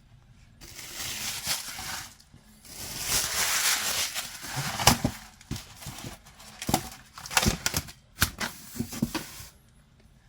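Packaging being handled: two stretches of rustling wrapping, then a run of sharp crinkles and clicks that stops near the end.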